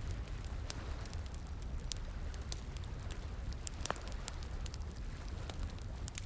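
Wood campfire crackling, with irregular sharp pops, one stronger about four seconds in, over a steady rush of flowing water.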